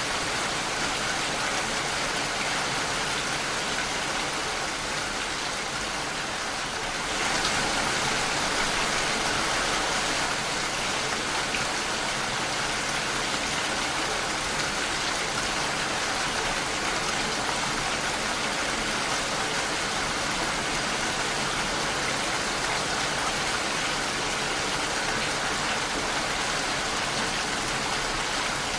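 Steady rain falling against a window pane, an even wash of drops with no single standout sound. It gets a little louder and brighter about seven seconds in, then holds steady.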